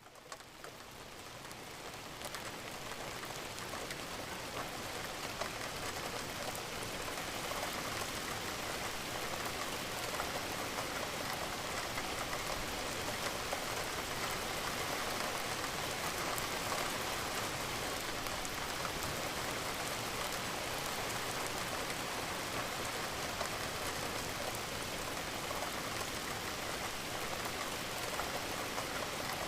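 Steady rain falling, a dense even patter of many drops, fading in over the first several seconds and then holding level.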